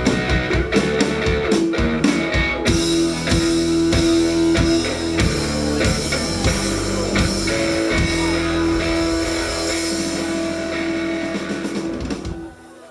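A live rock band playing the instrumental ending of a song, guitar over drum kit. The drum hits thin out after about eight seconds into held chords, and the band stops near the end.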